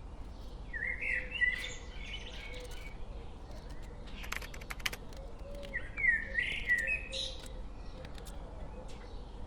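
Songbird singing two short warbling phrases, one about a second in and another about six seconds in, with a few sharp clicks between them.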